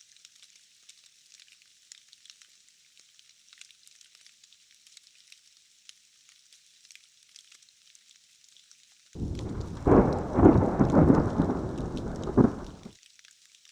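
Steady light rain hissing, then about nine seconds in a loud rolling clap of thunder lasting about four seconds, which cuts off suddenly.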